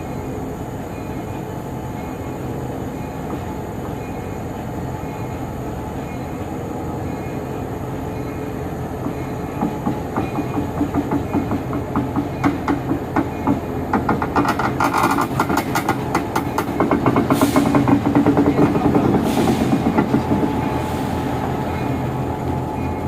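Diesel locomotive engine running steadily while the locomotive is coupled to a train. Partway through comes a quickening run of metallic clicks and clanks from the wheels, couplers and rolling stock. Three short hissing bursts follow near the end.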